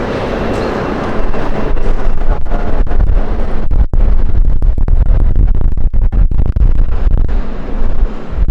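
Wind gusting against the microphone: a loud low rumble with brief dropouts, swelling about a second in.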